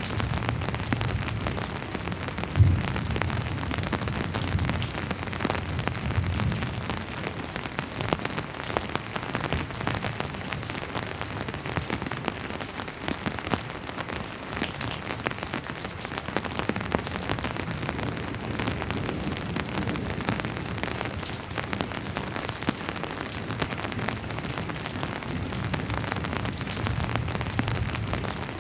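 Steady rain falling on a surface, a dense patter of individual drops. There is a single sharp knock about two and a half seconds in.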